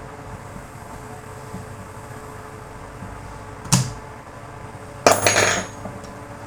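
Tools or grinder parts handled on a workbench: a single sharp knock a little past halfway, then a short metallic clatter about a second later, over a steady low hum.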